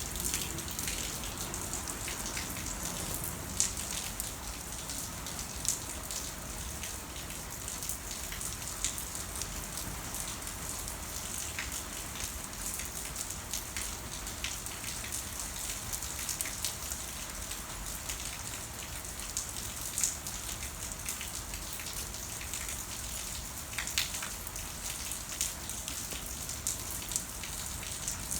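Steady rain falling, an even hiss with many small drop ticks and a few sharper, louder drops hitting a surface now and then.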